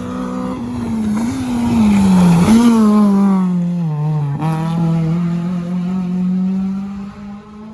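Rally car engine passing at speed on a rally stage. The engine note sags and then jumps back up twice, at about two and a half seconds and again just after four seconds. It is loudest around two and a half to three seconds in and fades toward the end.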